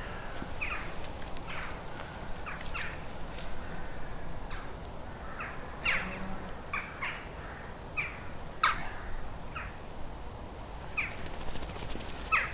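Birds calling outdoors: short, sharp calls repeated at irregular intervals, several close together, over a low steady background rumble.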